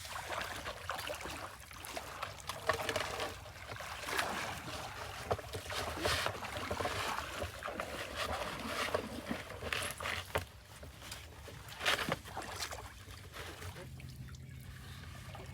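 Diesel engine of a water pump set running with a steady low hum, under irregular splashing and scraping noises with a few sharper knocks.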